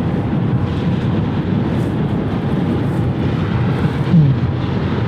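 Steady rumble of jet airliner engines across the airfield, mixed with wind on the microphone.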